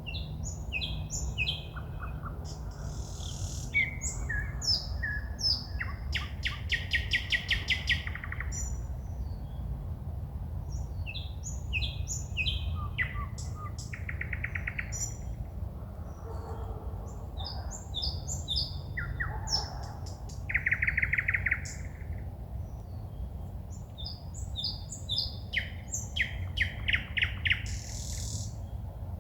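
A songbird singing: varied phrases of chirps and whistles broken by fast, loud runs of repeated notes, over a steady low rumble.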